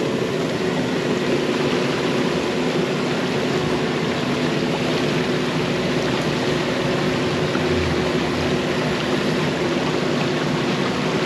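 Yanmar mini excavator's diesel engine running steadily, over a steady rush of water draining through the breached pond dam.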